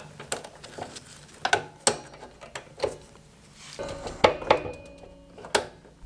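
Metal tools and small metal parts clinking and knocking together during hands-on work: about a dozen irregular sharp taps, a few of them ringing briefly.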